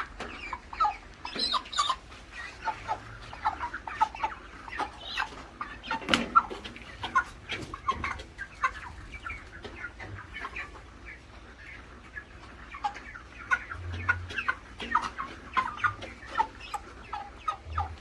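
A flock of 35-day-old broiler chickens clucking and calling steadily, with many short, overlapping calls. A single sharp knock comes about six seconds in.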